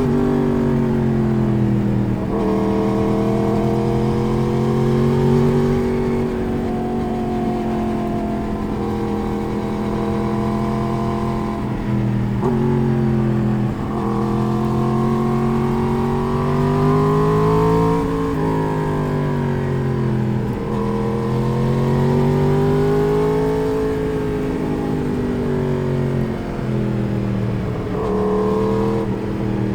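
Sport motorcycle's four-cylinder engine heard onboard while riding, its pitch climbing under acceleration and dropping sharply at gear changes several times, then rising again.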